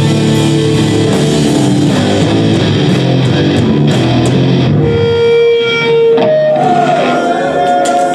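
Live rock band with electric guitar, playing a dense chordal passage over a heavy low end. About five seconds in it gives way to a single held note, then a higher, wavering sustained note at the close of the song.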